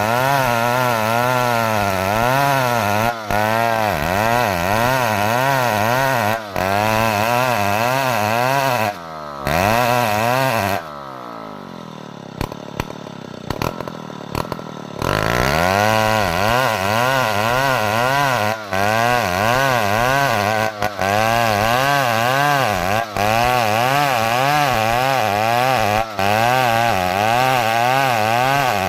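Two-stroke chainsaw engine running hard under cutting load, its pitch wavering up and down about twice a second. About ten seconds in it falls back to idle, idles with a few light clicks for about four seconds, then revs up again and carries on cutting.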